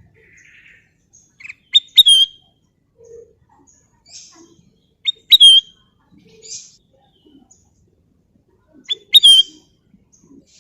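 Kutilang emas bulbul calling: three loud short phrases about three and a half seconds apart, each a sharp quick note followed by a clear falling whistle, with faint softer chirps between.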